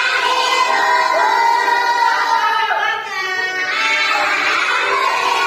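A group of young children singing together in unison, holding long notes.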